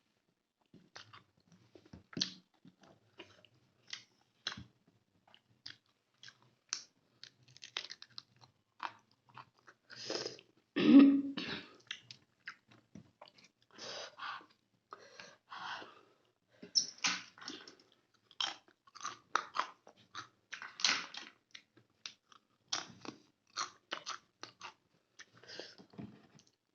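Close-up chewing and wet mouth smacks of someone eating chicken gravy with rice, in short irregular clicks, with one louder mouth sound about eleven seconds in.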